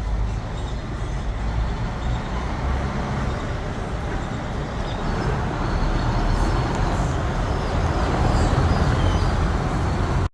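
Steady road traffic noise with a low rumble, and a few faint high chirps from about halfway through.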